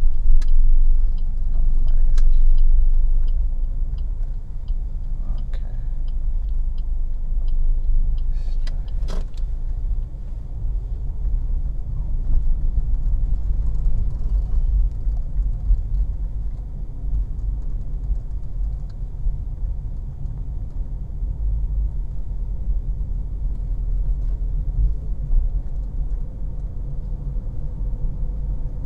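Inside a moving car: steady low engine and road rumble. Over the first eight seconds the turn indicator ticks about twice a second, and a sharp click comes about nine seconds in.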